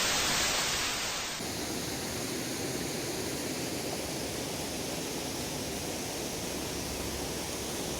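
Steady rushing hiss with no distinct events, brighter and a little louder for the first second and a half.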